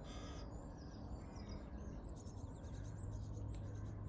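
Birdsong: many small birds chirping and twittering in quick overlapping notes, over a steady low hum that grows stronger about three seconds in.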